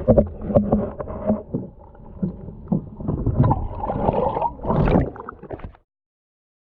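Rumbling and irregular knocks of a small fishing boat rocking on choppy water, with wind buffeting the microphone. The sound cuts off abruptly a little before six seconds in.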